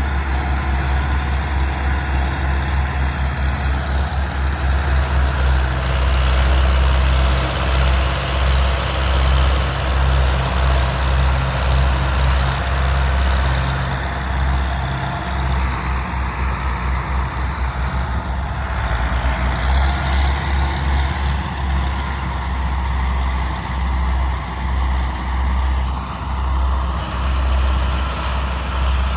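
Belarus 520 tractor's four-cylinder diesel engine running with a steady low rumble, its loudness swelling and easing every few seconds.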